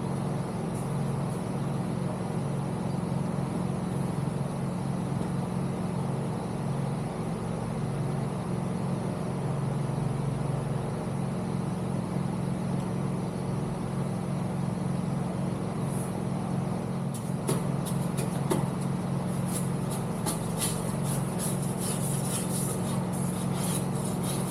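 A steady, engine-like mechanical drone, with a run of clicks and light knocks in the last third as the pump motor parts are fitted back together.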